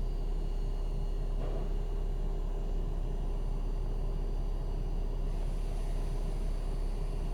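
Belanger Vector touchless car wash heard from inside the car's cabin: a steady low rumble and hum while the wash cycle runs, with a brighter hiss of spray coming in about five seconds in.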